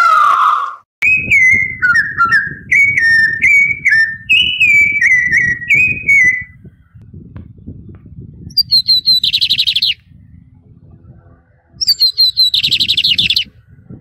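A peacock's loud call ends just under a second in. A bird then repeats short falling whistled notes, about one and a half a second, for around five seconds, followed by two bursts of rapid chattering.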